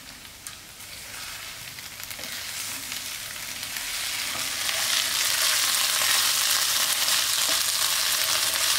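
Chicken giblets frying in oil in a pan, sizzling steadily. The sizzle grows louder over the first five seconds, then holds.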